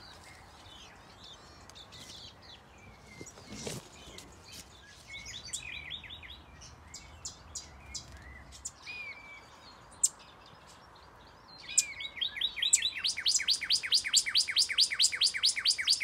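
Small aviary birds calling: scattered short chirps and tweets, then, near the end, a loud, fast run of sharp repeated notes, about six a second.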